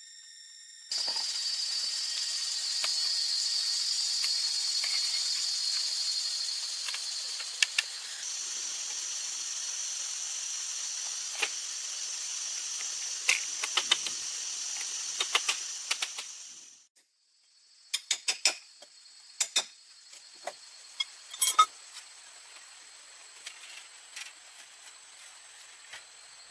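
Jungle insects shrilling in a loud, high-pitched chorus that starts abruptly and fades out about two-thirds of the way through. Scattered sharp clicks follow over a fainter insect drone.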